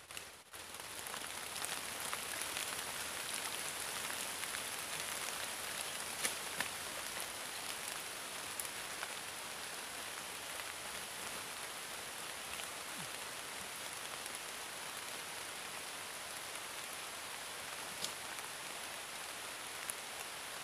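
Steady rain falling on a pond's surface, an even hiss with scattered sharper drop hits, coming in abruptly right at the start.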